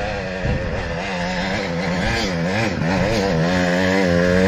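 Two-stroke dirt bike engine revving hard on a hill climb, its pitch rising and falling again and again as the throttle works, growing steadily louder as the bike comes up the hill.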